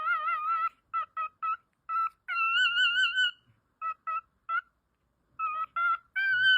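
A high whistled melody with a wavering vibrato: groups of short staccato notes and two long held notes, with silent gaps between the phrases.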